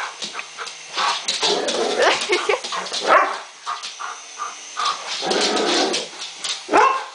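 Dog barking and whimpering in excited, irregular bursts, with a few rising whines.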